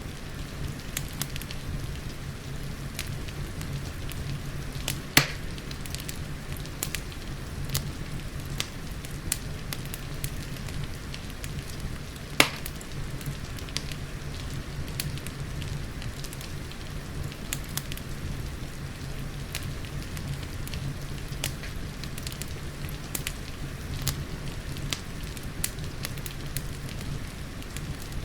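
Fireplace crackling: a steady scatter of sharp crackles, with two louder pops about five and twelve seconds in, over a steady low rush of rain.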